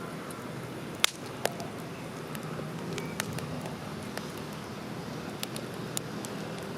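Wood campfire crackling: a steady hiss with scattered sharp pops, the loudest about a second in.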